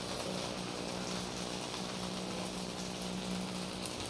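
Maida dosa sizzling steadily in oil on a hot iron tawa, the batter crisping as it fries. A faint steady hum sits underneath.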